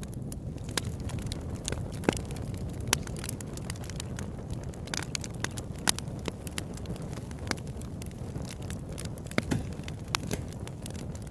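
Campfire burning and crackling: irregular sharp pops and snaps over a steady low rumble.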